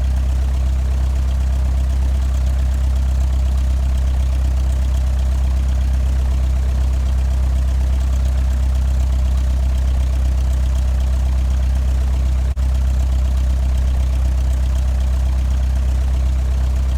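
Steady low drone of aircraft engines idling, unchanging in pitch and level, with a momentary dropout about twelve and a half seconds in.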